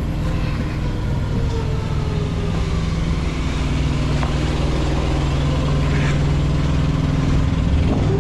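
An engine running steadily close by, its pitch rising near the end.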